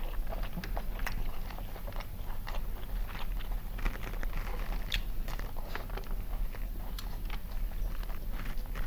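Close-up eating sounds of chicken biryani being eaten: wet chewing and biting with many irregular crisp clicks and crunches.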